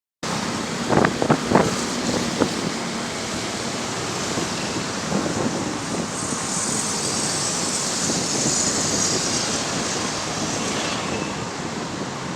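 Excavator working: a steady machinery rumble with several sharp knocks in the first couple of seconds and a high hiss through the middle.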